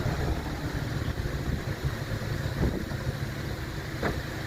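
Strong thunderstorm wind rumbling and buffeting the microphone, with a steady rushing noise behind it.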